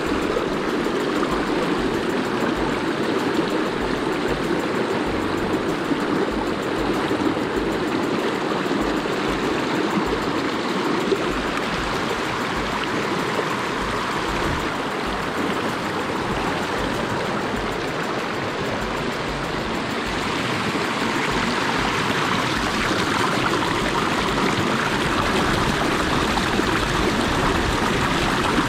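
A small river flowing, a steady rush and babble of water.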